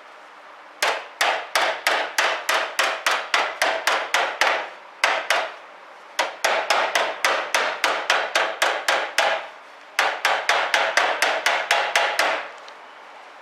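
Rapid hammer blows on sheet steel, about five a second, in runs of several seconds with short pauses between. Each blow rings briefly.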